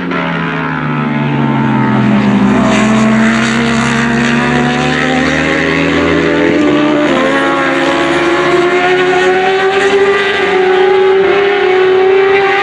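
Racing motorcycle engine: the pitch drops as the bike slows into a corner, then climbs as it accelerates away, with an upshift about seven seconds in before it rises again.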